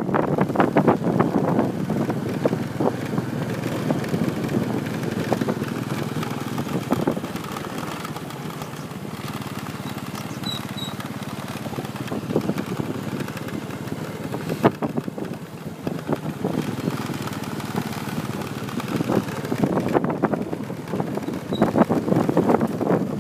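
Motorcycle riding along a road: the engine running under a steady rush of wind on the microphone with frequent gusty buffets, easing a little in the middle and growing stronger again near the end.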